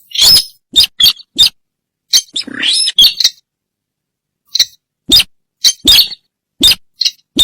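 Sintar bird calls played as a hunting lure: short, harsh call notes repeated in quick groups, some sweeping upward, with abrupt dead-silent gaps between them.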